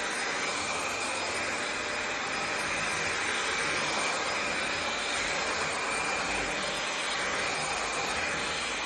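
Vacuum cleaner running steadily, a continuous rushing noise with a high whine.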